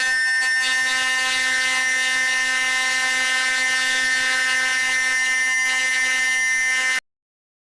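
A loud, steady buzzing tone held at one pitch, which cuts off suddenly about seven seconds in.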